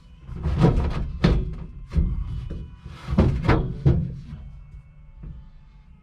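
A sheet-metal panel being bent and knocked into shape: a series of thuds and clangs with a metallic ring, in two bursts, the second about three seconds in.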